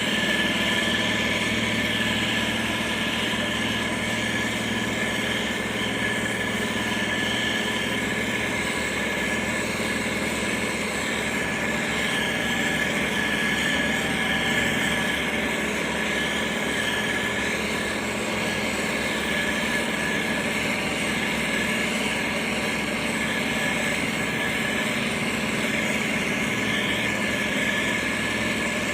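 Motor grader's diesel engine running steadily, with a steady high whine over the engine note.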